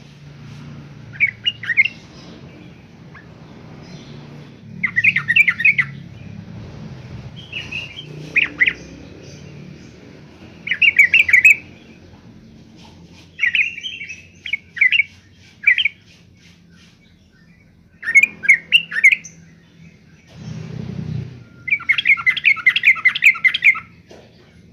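Yellow-vented bulbul singing: short, bubbly bursts of quick chirping notes every couple of seconds, the longest run near the end, over a low steady hum.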